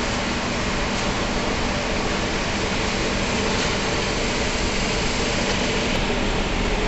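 Steady machinery noise of an industrial plant: an even hiss with a low, constant hum, unchanging throughout.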